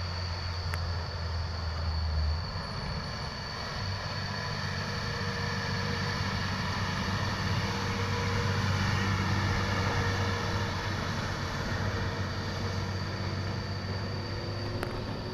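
Dump truck creeping down a steep grade: a low engine rumble with a steady high-pitched squeal from its brakes.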